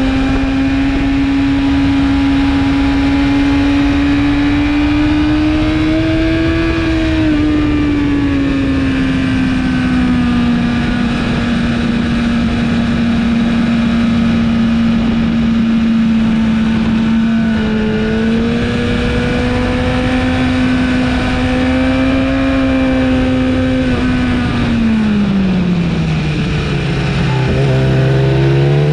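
BMW S1000RR inline-four with an Akrapovic exhaust running at high, steady revs under heavy wind rush at track speed. About 25 seconds in, the engine note falls steeply, then starts climbing again near the end.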